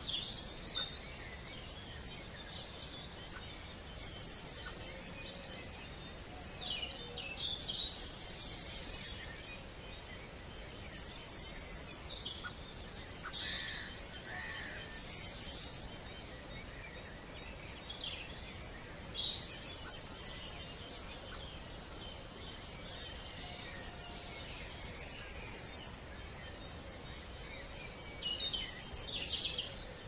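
Dawn bird chorus: one songbird sings the same short, high song about every four seconds, a sharp high note running into a quick even trill. Other birds call more faintly and irregularly underneath.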